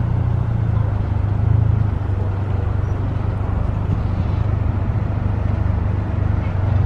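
Car engine running at low speed, heard from inside the cabin as a steady low hum with road and air noise over it.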